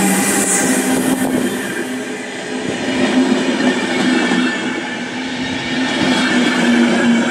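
Passenger coaches of a passing electric-hauled train rolling by close to the platform: steady wheel-on-rail rolling noise with a steady low tone underneath.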